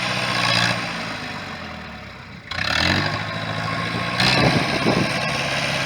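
Diesel engine of a 1973 International 3444 loader tractor running and growing fainter, then revving up about two and a half seconds in and staying loud.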